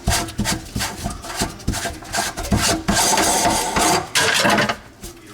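Old garbage disposal being worked loose from its sink mount: quick, repeated scraping and rubbing strokes, then a couple of longer scrapes that fade out near the end.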